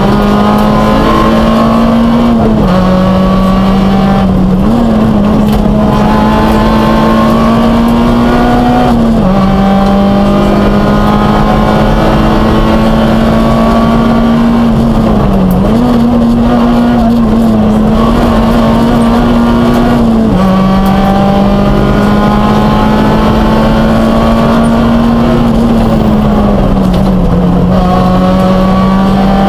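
Peugeot 106 rally car's four-cylinder engine heard from inside the cabin, running hard at speed. Its pitch holds steady, then steps down and back up several times.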